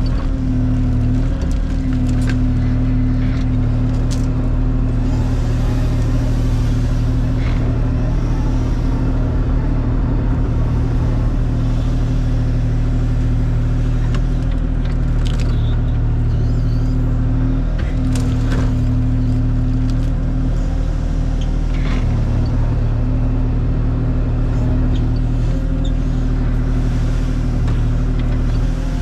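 Kubota KX040 mini excavator's diesel engine running steadily under work, its pitch shifting slightly a few times, with a few brief knocks.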